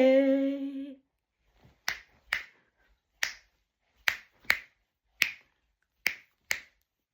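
Finger snaps, eight of them in a loose, uneven rhythm, several in quick pairs, following a briefly held sung note.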